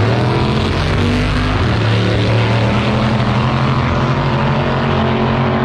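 Loud, steady rumble of high-performance drag-racing street car engines, holding a low pitch with a slight shift about two seconds in.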